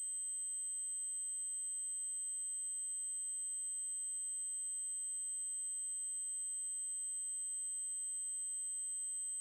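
Synthesized 8192 Hz triangle-wave tone: a single very high-pitched, unchanging electronic tone held at a steady level.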